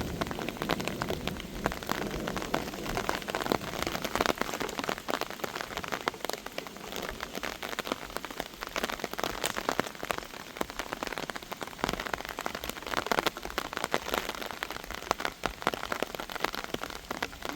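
Heavy rain falling steadily, with many individual drops striking hard surfaces close by as quick, sharp ticks.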